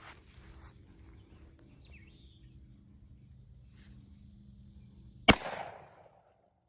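A single .44 Magnum revolver shot from a Ruger Super Redhawk Alaskan about five seconds in, very loud and sharp, with a short echo trailing off after it.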